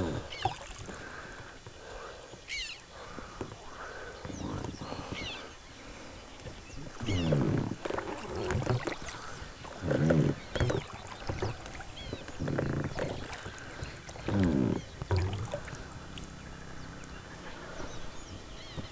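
Frogs croaking: a series of loud, low calls repeating every two seconds or so, with small birds chirping high above them.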